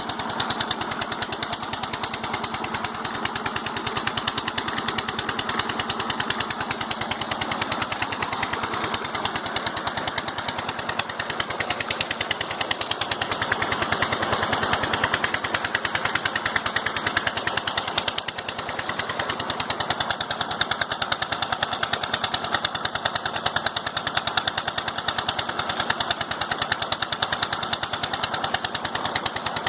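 16 hp diesel engine running steadily with rapid, even exhaust beats while driving a high-pressure water pump.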